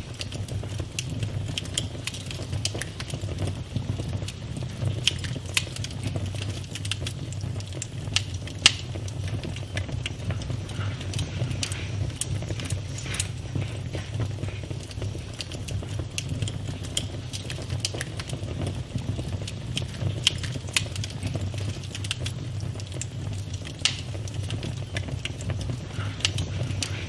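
Campfire burning, with a steady low rumble of flames and irregular crackles and sharper pops from the burning wood.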